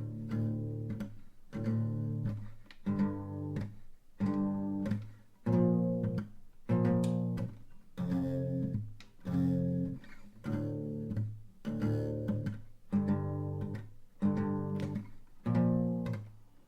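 Instrumental guitar intro: chords strummed in an even rhythm, about one strum every second and a bit, each chord ringing and fading before the next.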